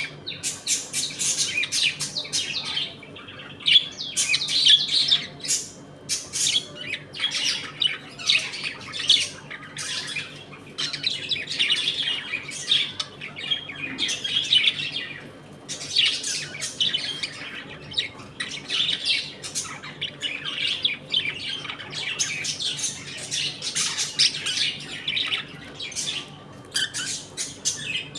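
A flock of budgerigars chattering continuously, with overlapping chirps, warbles and sharp squawks.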